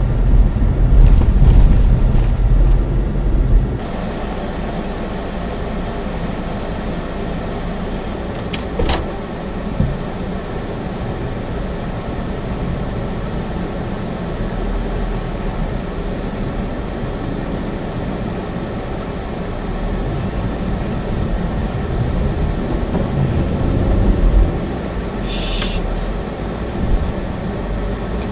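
A Chevy Spark heard from inside its cabin, with a steady engine and road rumble that is heavier for the first few seconds and then settles. There is a sharp click about nine seconds in and a brief high hiss near the end.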